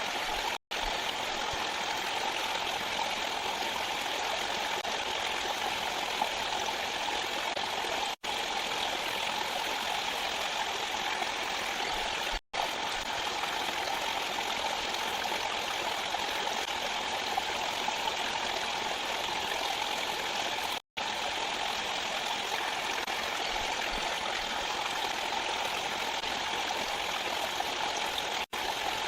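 Steady rush of flowing stream water, cutting out for a split second five times.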